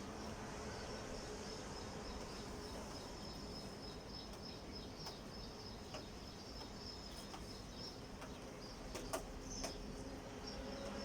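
Steady background room noise with a faint, constant high-pitched whine and a low hum, broken by a couple of sharp clicks near the end.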